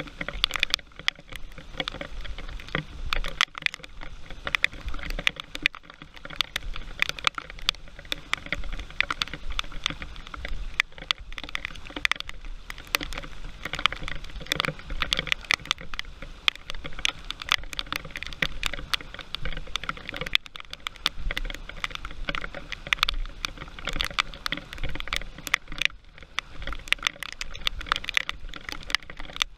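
Heavy rain pattering, with a dense, irregular run of raindrop clicks striking close to the microphone over a low rumble.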